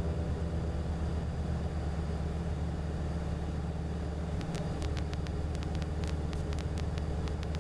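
Cessna 177RG Cardinal's four-cylinder Lycoming IO-360 engine and propeller droning steadily in cruise, heard inside the cockpit. From a little past halfway there is a scatter of sharp clicks.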